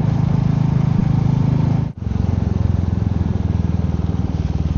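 Royal Enfield Meteor 350's single-cylinder engine running at a steady road speed, its even low pulsing under a haze of wind and road noise. The sound cuts out for an instant about two seconds in.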